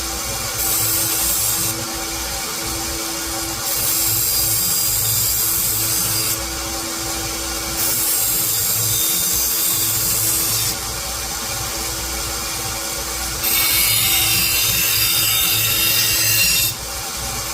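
An abrasive power tool runs with a steady motor hum while a workpiece is pressed against it four times, each pass a few seconds long and adding a loud hissing grind.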